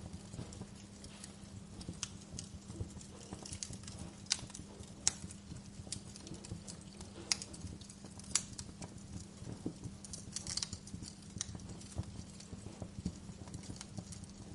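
Wood fire crackling, with irregular sharp pops and snaps over a low steady rumble; a few louder single pops and a quick burst of crackles a little past the middle.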